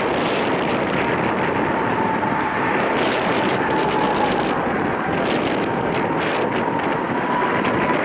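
Wind buffeting the microphone over the distant running of a diesel-hauled freight train, with a faint steady whine in the background.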